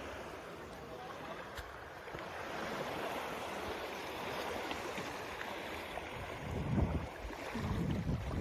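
Sea waves washing on the shore with wind rumbling on the microphone, which swells a couple of times near the end.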